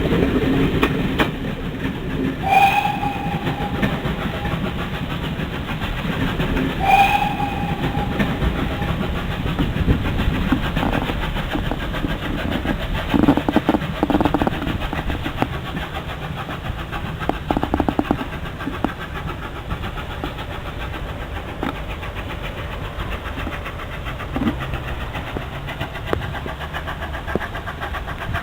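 Steam train running, its locomotive's whistle giving two short blasts about four seconds apart over the steady noise of the train.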